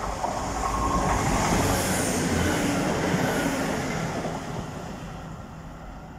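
Class 170 Turbostar diesel multiple unit passing on the main line, its wheels and diesel engines running with a low engine note under the rail noise. The sound is loudest in the first few seconds and fades away over the rest.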